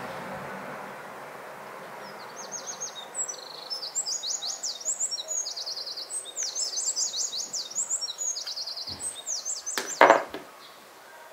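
A small bird twittering in quick, high chirping phrases. A short, loud thump near the end.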